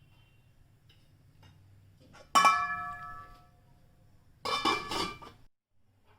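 Metal cookware clinking: a sharp ringing clink about two seconds in that dies away over a second or so, then a shorter clatter about four and a half seconds in.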